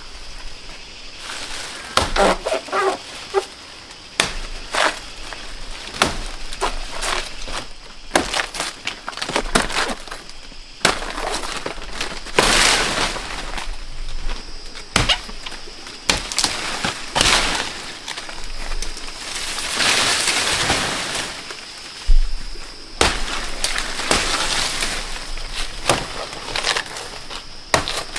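Irregular snapping, cracking and rustling of plant material being handled and broken, with sharp snaps scattered throughout and longer rustling bursts.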